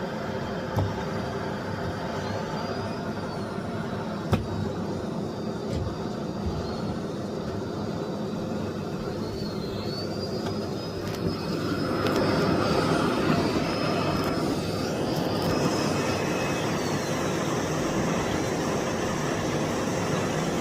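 Miele Blizzard CX1 Cat & Dog PowerLine bagless cylinder vacuum cleaner running steadily while vacuuming, its motor noise carrying a faint high whine that shifts slightly in pitch. It gets louder a little past halfway, and there is a sharp knock about a second in and another about four seconds in.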